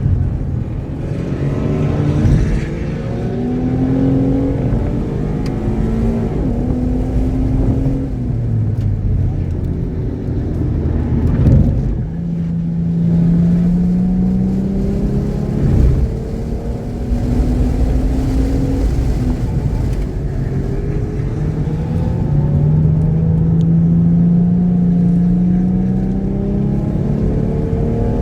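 Car engine under hard acceleration on a racetrack, its pitch climbing through the revs and dropping back at each upshift, several times over, with heavy wind and road noise. It runs cleanly, without misfiring.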